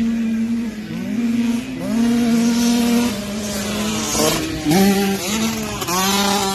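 Dirt bike engine revving hard, its pitch climbing and falling back several times as the rider works the throttle and shifts.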